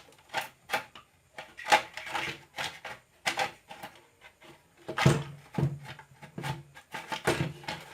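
Irregular knocks, clicks and scrapes as a mixer grinder's motor is handled and lifted out of its housing, the loudest knocks about two, three and a half, five and seven seconds in.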